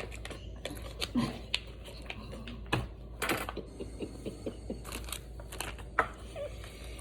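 Plastic snack wrapper being handled, an irregular run of small clicks and crinkles.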